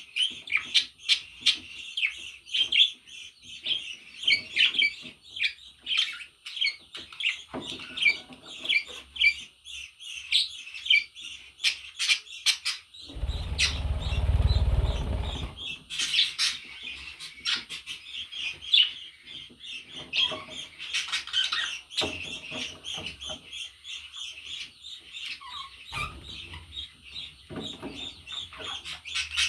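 Budgerigar warbling and chattering nonstop in a rapid string of short chirps. A low rumble breaks in for about two seconds midway.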